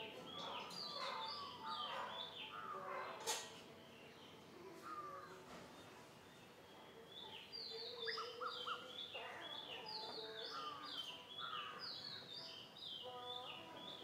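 Wild birds calling: runs of short, quick, falling chirps, busy for the first few seconds and again from about halfway until near the end, with lower calls under them and one sharp click about three seconds in.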